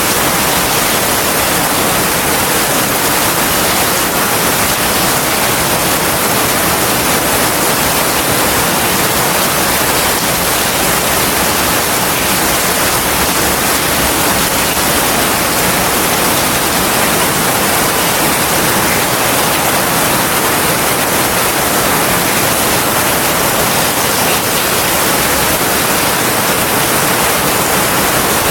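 Heavy rain falling steadily, a dense, even hiss with no thunder and no breaks.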